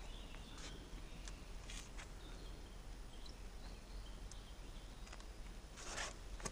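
Faint outdoor ambience with scattered short bird chirps over a steady low background noise, and a brief louder scratchy noise about six seconds in.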